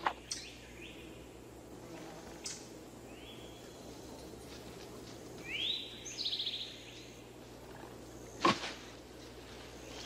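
Birds calling over a steady outdoor hum: a few short chirps, then a rising call about halfway through that breaks into rapid repeated notes. A single sharp thump comes near the end.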